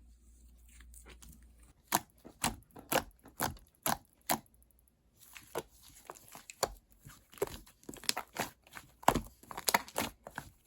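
Slime being kneaded with clay mixed in, making sharp sticky pops and clicks: a few spaced pops starting about two seconds in, then quicker, irregular popping and crackling from about halfway.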